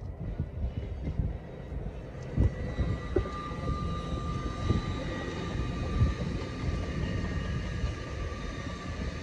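Lumo Class 803 electric multiple unit passing: a steady low rumble of wheels on rail with a few thumps, and a steady whine that joins about three seconds in.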